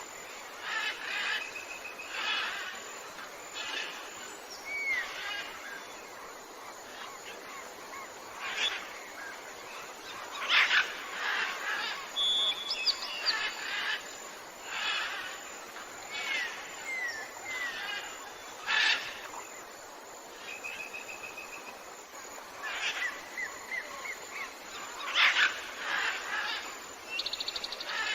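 Tropical jungle ambience: many birds calling at once, short chirps, whistled upward slurs and buzzy trills coming every second or two over a steady background hiss.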